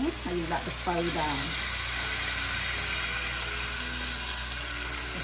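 Steady sizzling of pork and dried mud fish frying in a pan, with a little water just added.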